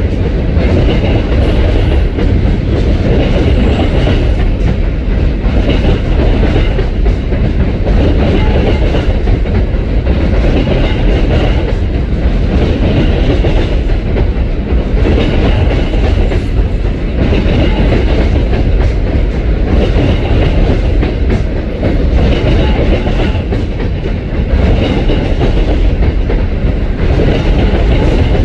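Freight train of the CSX Tropicana juice train rolling past, a loud steady low rumble with a clickety-clack recurring every second or two as the wheels pass over the rail joints.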